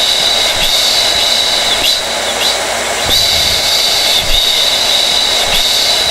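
Hair dryer running steadily: a constant rush of air with a high motor whine over it.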